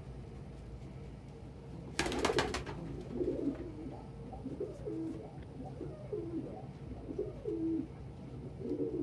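Domestic pigeons cooing: a run of low, repeated coos, each dipping in pitch, starting about three seconds in, after a short burst of rapid clatter about two seconds in.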